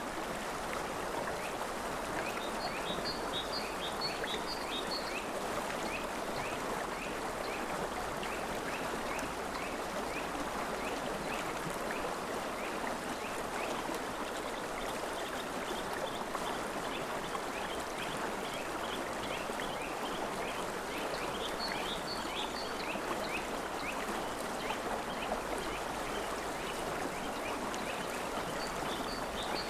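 River water flowing steadily, with a bird calling in quick runs of short high chirps, mostly in the first half and again near the end.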